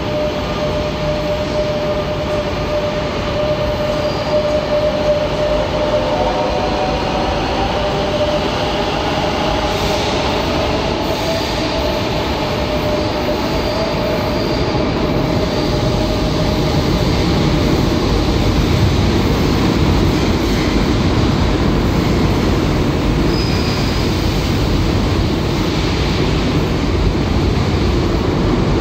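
Rodalies electric commuter train running along an underground station platform: a steady rumble of wheels on the rails, with a whine that slides in pitch over roughly the first ten seconds. The rumble grows heavier in the second half.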